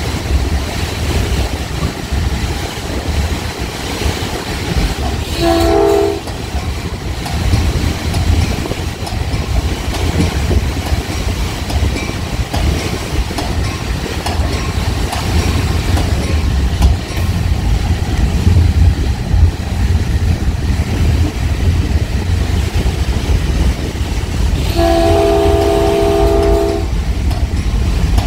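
Diesel-hauled Caltrain gallery train running at speed, heard from inside its front cab car: a steady low rumble with wheel and rail clatter. The train's multi-tone horn gives a short blast about five seconds in and a longer blast of about two seconds near the end.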